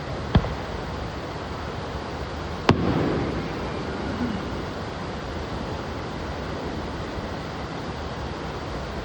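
Fireworks: two sharp bangs of bursting shells about two seconds apart, the second followed by a rolling echo that dies away, over a steady rushing noise.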